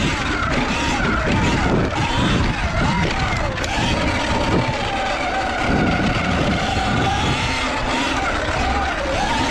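Segway X160 electric dirt bike's motor whining, its pitch rising and falling as the throttle is opened and closed, over heavy wind rumble on the microphone.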